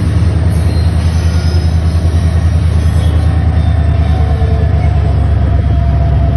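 Long passenger train's carriages rolling past, a loud steady rumble of wheels on rail with a faint thin squeal over it.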